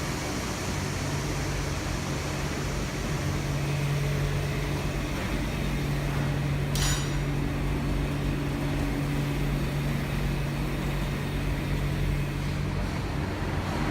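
A machine running with a steady low hum, and a single sharp metallic clink that rings briefly about seven seconds in.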